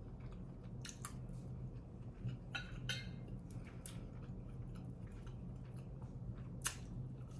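Close-up eating sounds of someone chewing tandoori chicken off the bone, with a handful of short wet mouth clicks and smacks scattered through, over a low steady hum.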